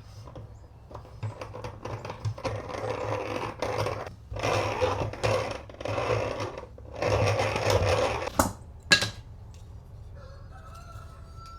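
Four long scraping or sanding strokes by hand, each about a second, followed by two sharp clinks.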